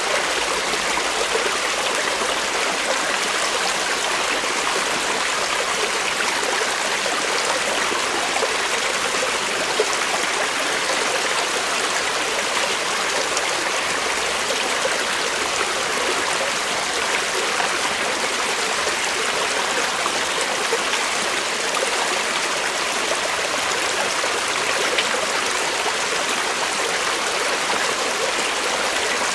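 Creek water flowing over rocks, a steady rushing and burbling.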